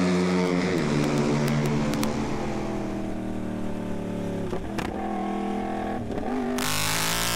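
Yamaha R1M's crossplane inline-four running steadily under way, its note dipping briefly twice in the second half. Near the end a loud rush of wind noise comes in over it.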